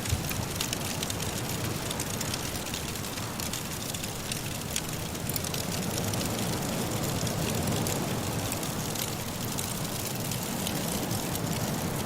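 Firewood crackling in a fireplace, with many small sharp pops over a steady low rumble of blowing wind that swells for a few seconds around the middle.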